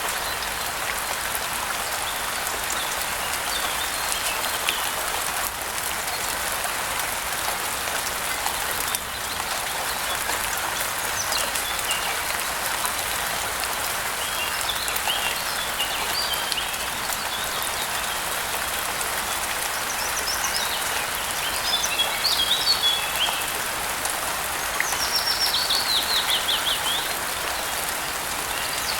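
Steady rain falling, a dense hiss of drops, with songbirds chirping over it. The birds call off and on in short bursts, busier in the second half, with a quick run of falling notes near the end.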